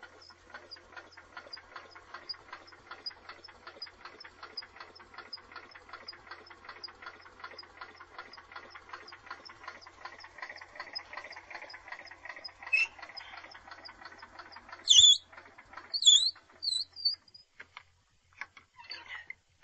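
Sears SS14 garden tractor engine being cranked over by its starter on a cold start, turning slowly and rhythmically against heavy compression at about three beats a second. The cranking stops about fifteen seconds in, followed by a few loud, brief high-pitched chirps.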